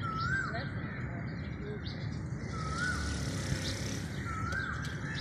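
Birds calling: a clear whistled note that rises and falls repeats about every two seconds, over higher, scratchier bird calls and a steady low rumble.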